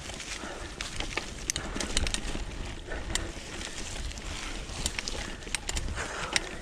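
Mountain bike riding a dirt trail: tyres running over dirt and loose stones, with frequent sharp clicks and rattles from the bike throughout and a low rumble of wind on the microphone.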